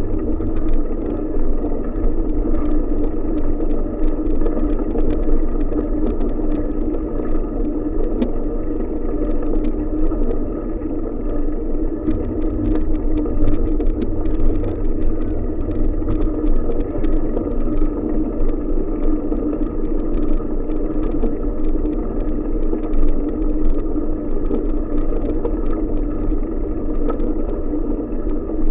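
Wind buffeting the microphone on a moving bicycle: a steady low rumble with a constant drone and a patter of fine rattling clicks.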